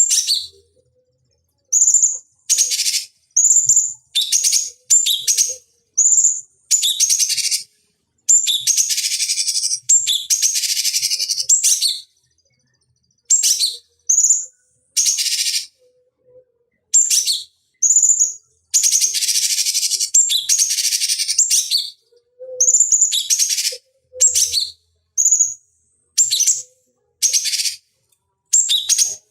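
Cucak cungkok singing: a string of short, high, chirping song phrases with sharp silent gaps between them, and two longer rapid phrases about a third and two thirds of the way through.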